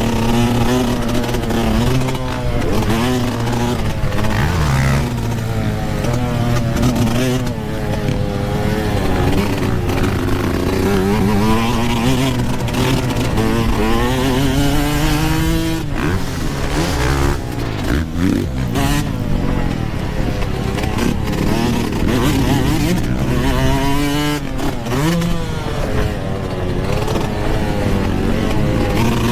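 Yamaha YZ125 two-stroke motocross bike being ridden hard, its engine pitch climbing and dropping again and again as the throttle is opened and rolled off.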